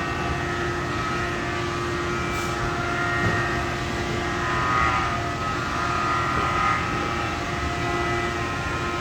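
Machine-shop machinery running steadily: a constant hum with a high whine over it, swelling slightly a few times.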